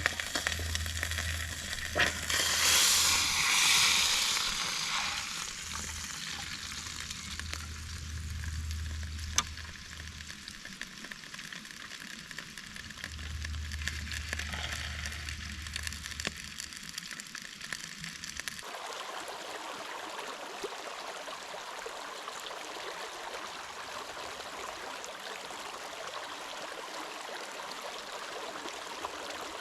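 Steak sizzling over a campfire's embers, with a louder hissing surge a few seconds in. About eighteen seconds in, the sound changes abruptly to a different, even steady hiss.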